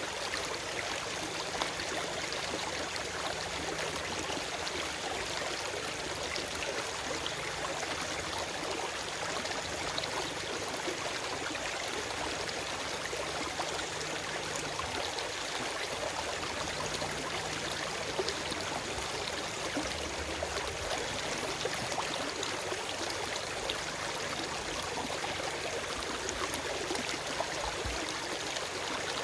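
Forest stream flowing steadily over rocks, an even rush of water with small splashes and gurgles through it.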